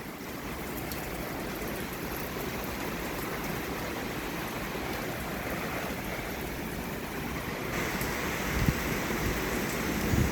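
Heavy rain pouring down in strong wind: a steady rushing hiss that grows a little louder near the end, with a few low thumps of wind gusts hitting the microphone.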